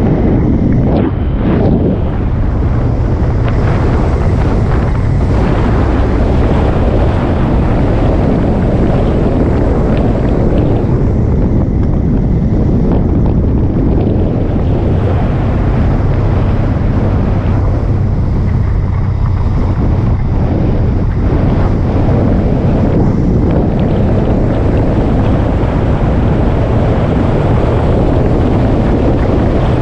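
Wind rushing over the microphone of a moving motorcycle, with the engine's steady low drone underneath.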